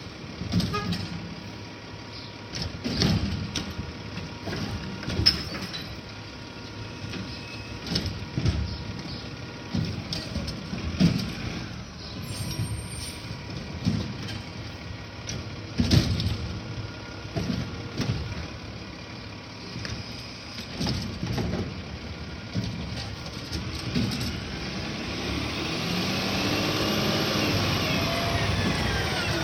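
Recycling truck running, with repeated sharp clanks and bangs throughout; its sound grows louder with shifting pitch near the end.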